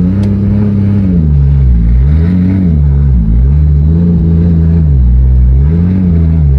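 Turbocharged Toyota 2JZ straight-six swapped into a BMW E46, being revved again and again. The engine speed rises and falls about every second and a half, with a loud, steady exhaust note between the rises.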